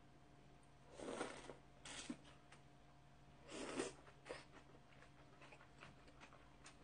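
Close mouth sounds of a person chewing a mouthful of grilled tofu topped with raw onion: a few short noisy chewing bursts about one, two and three and a half seconds in, then faint small clicks.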